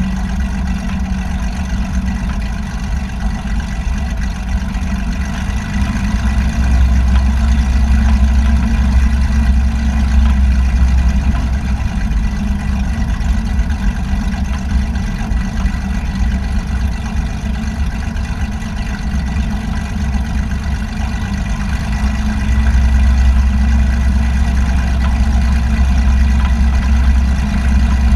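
Aircraft engine running with a steady drone. The low rumble grows louder for several seconds about a quarter of the way in, and again near the end.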